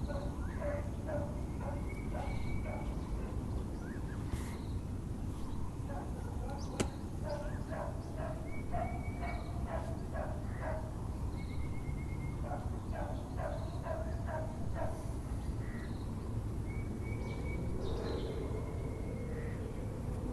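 A dog barking in short runs of quick barks, with birds giving brief high trills between them. A steady low background rumble runs under it, and there is one sharp click about seven seconds in.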